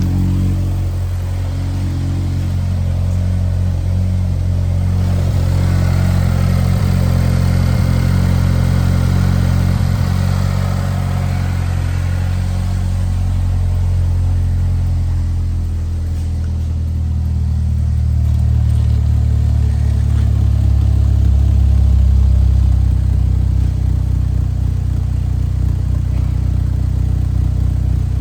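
2012 Chevrolet Equinox's 2.4-litre four-cylinder engine running steadily. It grows louder for a few seconds about two-thirds of the way in.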